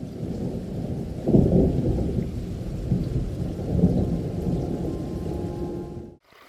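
A low, continuous rumble with two louder swells, about a second in and again near four seconds, cutting off suddenly near the end.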